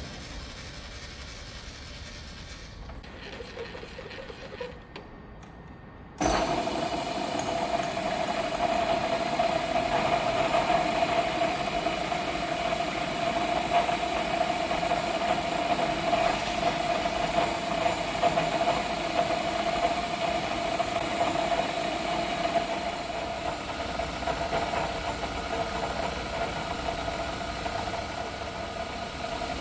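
Milling machine's spindle starts suddenly about six seconds in and then runs steadily with a constant mid-pitched whine, spinning an edge finder to locate the centre of the workpiece. Before that there is only a low steady shop hum.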